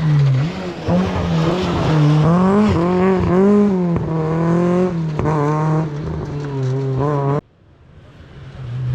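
Rally car engine at full throttle, its pitch climbing and dropping repeatedly as it shifts through the gears. It cuts off abruptly about seven seconds in, and a fainter engine sound then grows louder near the end.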